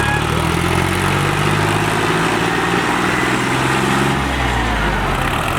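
Diesel tractor engine running steadily at speed, a deep, even drone whose pitch dips slightly about four seconds in.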